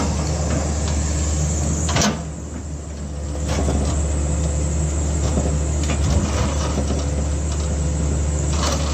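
Diesel engine of heavy earth-moving machinery running steadily. A sharp clank comes about two seconds in, then the engine drops quieter for a second or so before picking back up.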